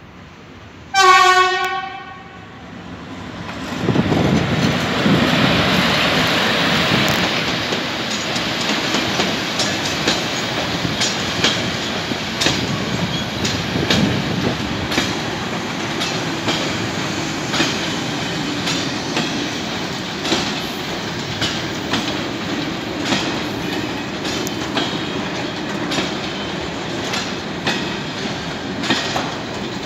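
A single short locomotive horn blast about a second in. Then a freight train hauled by a Polish ET22 electric locomotive passes close by, with a steady rolling rumble and repeated clicks as the wheels of its sliding-wall boxcars run over rail joints.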